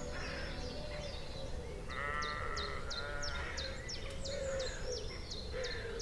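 A single wavering animal cry about two seconds in, over birds chirping: one bird repeats a short, high, falling note many times in quick succession.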